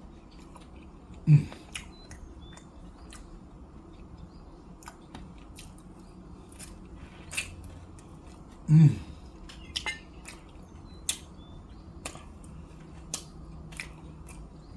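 Close-up eating of fried chicken wings: chewing, crunching and lip-smacking as scattered sharp clicks, with two short appreciative 'mm' sounds, about a second in and about nine seconds in.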